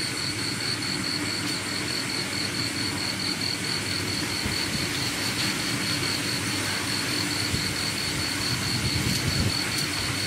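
Steady hiss of rain, with an insect chirping over it in a fast, even pulse.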